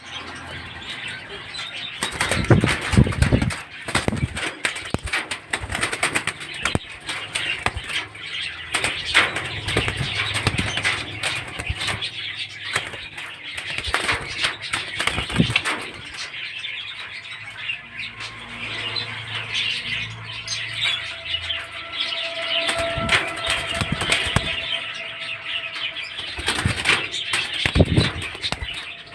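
Ringneck parakeets fluttering and moving about, with wings flapping and rustling and many small clicks throughout. There are heavier thumps about three seconds in and again near the end.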